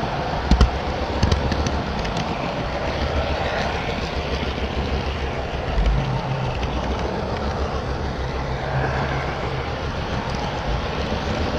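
HO scale model trains running on the layout: a steady mechanical rumble with a few sharp clicks in the first two seconds and a low thump about six seconds in.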